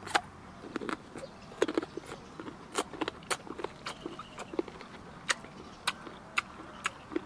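Close-up chewing of crisp raw green mango: irregular sharp crunchy clicks, about two or three a second.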